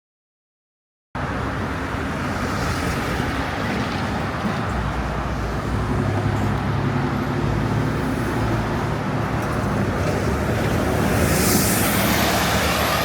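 Steady road traffic noise with a low engine hum, cutting in suddenly about a second in after silence. A thin high whine appears near the end and slides down.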